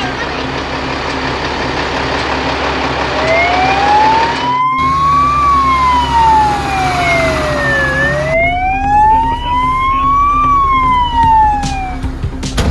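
Siren wailing, its pitch rising slowly and falling twice over a steady background rumble. It starts a few seconds in and breaks off briefly partway through.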